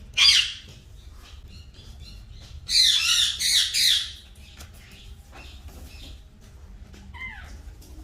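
Green parrot squawking: one harsh screech just after the start, a run of loud screeches about three to four seconds in, and a short falling call near the end.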